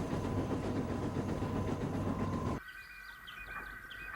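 Train running along the track, a steady running noise that cuts off suddenly about two and a half seconds in. Faint bird chirps follow.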